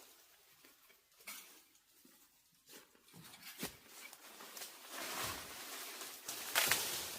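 Intermittent rustling and rubbing with a few short knocks, building to a longer rub and a louder crackling scrape near the end.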